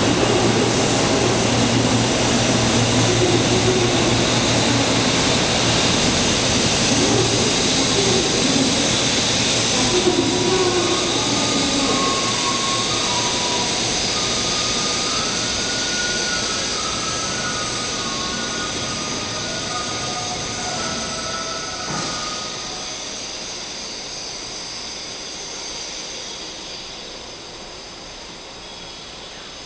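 Series 0 Shinkansen train pulling out and running away. Its rumble is loud at first, with higher tones that step up in pitch as it gathers speed. It then fades steadily as the train leaves, with a single sharp click partway through.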